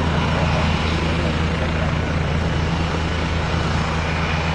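Leonardo AW169 twin-engine helicopter running, a steady drone of rotor and turbine noise with a fast low flutter from the rotor blades.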